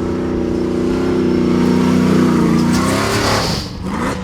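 Race truck engine running hard, its pitch slowly sagging and then climbing again near the end as it revs.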